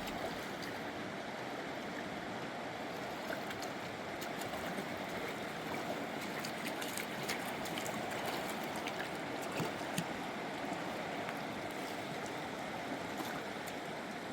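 A rushing mountain river: a steady wash of flowing water.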